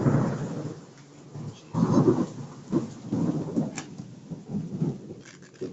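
Thunder rumbling over heavy rain during a hailstorm, the rumble loudest at the start and swelling again about two seconds in, then dying away in smaller rolls.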